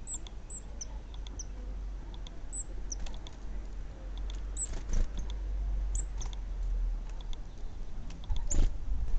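Small garden birds chirping: scattered short, high calls over a steady low rumble, with light taps and two louder knocks, about five seconds in and near the end.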